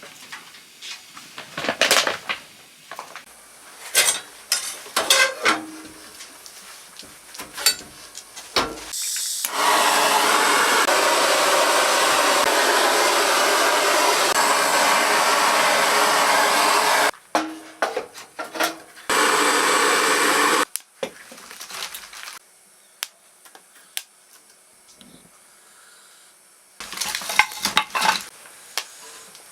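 Dishes and utensils clinking and clattering, with a loud steady rushing noise for about seven seconds in the middle and again briefly soon after.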